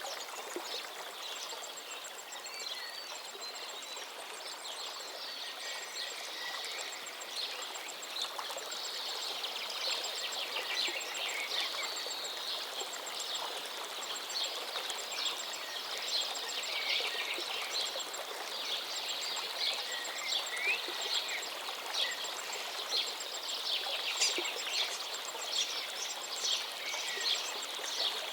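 River water flowing steadily, with many small birds chirping and trilling over it; the short calls come thicker and louder in the second half.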